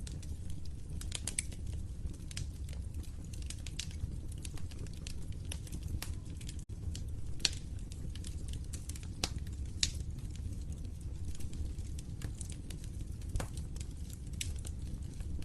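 Wood fire crackling in a fireplace: irregular sharp pops and snaps over the low, steady rumble of the flames, with a momentary break in the sound about six and a half seconds in.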